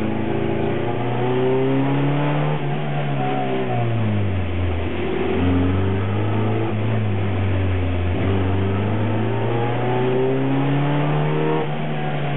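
Škoda Rapid's rear-mounted four-cylinder engine pulled hard through a slalom run, heard from inside the cabin. The revs climb, drop to a low point about four to five seconds in, climb again and dip briefly near the end, as on a gear change.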